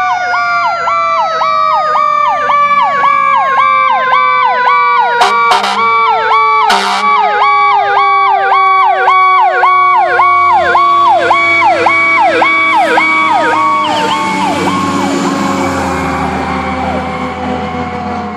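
Fire apparatus passing with its electronic siren yelping about two and a half times a second over a mechanical siren winding down in a long falling wail. Short horn blasts come about five and seven seconds in, and engine and road noise rise in the second half as the siren fades.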